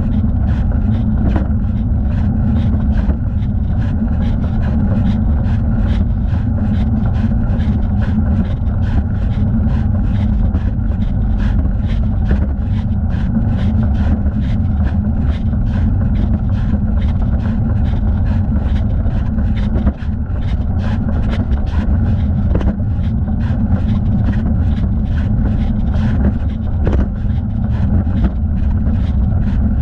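Steady wind and rolling noise on a thigh-mounted camera during a bicycle ride, with a regular light ticking at about two beats a second.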